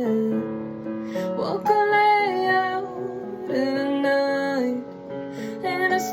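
A female voice singing held, gliding notes over piano accompaniment in a pop-song piano cover.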